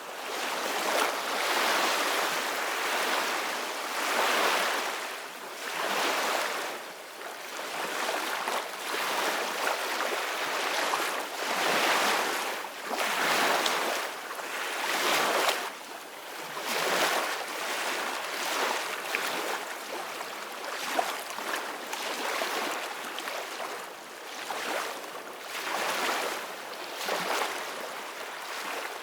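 Sea waves washing and breaking in a steady wash, swelling and easing every two seconds or so, with wind.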